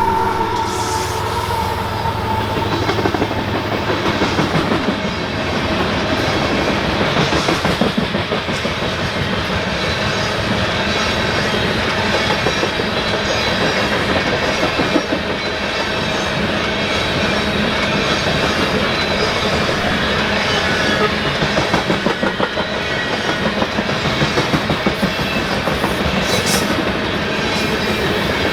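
Freight train of coal cars rolling past at close range, a steady rumble of wheels and rail with a rhythmic clickety-clack of wheels over rail joints that grows more distinct in the second half.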